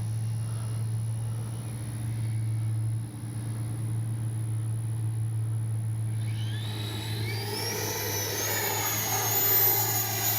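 80mm 12-blade ducted fan of an RC jet, a faint steady whine at first; about six seconds in the throttle comes up and the fan's whine rises in pitch in steps and grows louder.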